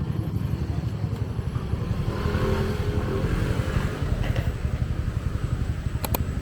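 Motor vehicle engine running close by, a steady fast low pulsing, with a couple of sharp clicks near the end.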